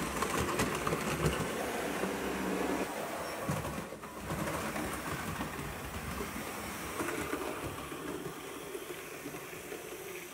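Hornby OO gauge model of the Bulleid Pacific 'Blackmore Vale' running round the track on DC, its motor and wheels making a steady running rumble that grows fainter toward the end.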